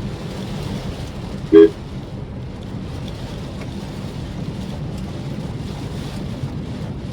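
Steady road and rain noise from a Maruti Suzuki Swift Dzire driving in the rain, with one short, loud horn beep about a second and a half in.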